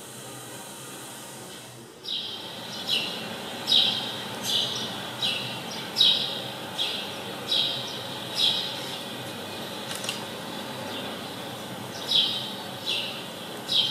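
A bird chirping over and over: short calls that each drop quickly in pitch, a little under one a second, starting about two seconds in, over a steady background hiss.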